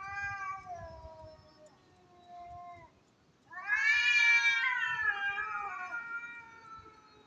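Cats yowling at each other in a territorial standoff: long, drawn-out wavering calls. The loudest starts about halfway through and slowly falls in pitch.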